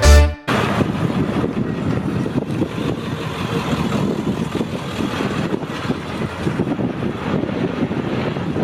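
Steady rumble and road noise of a vehicle driving. A music passage cuts off just before it begins.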